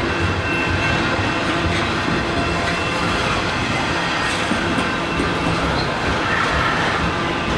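Canadian Pacific freight train's cars rolling past at close range, a steady rumble and clatter of steel wheels on the rails.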